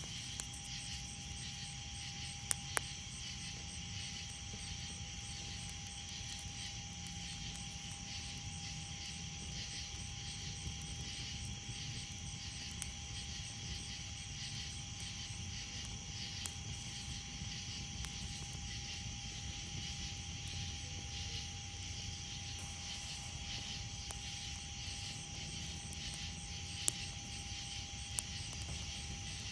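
Night insect chorus of crickets, a steady pulsing trill with a thin steady whine beneath, and a few sharp campfire pops, twice near the start and twice near the end. Under it all a low steady rumble, like distant traffic or an aircraft.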